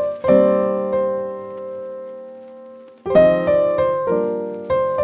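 Piano music: a chord is struck and left to fade for a few seconds, then a new phrase of single notes and chords begins.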